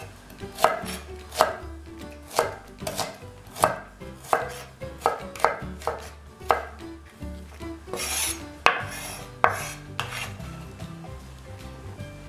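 Chef's knife slicing a shallot on a bamboo cutting board: a sharp knock of the blade on the board about every two-thirds of a second, then a couple of longer scrapes across the board near the end.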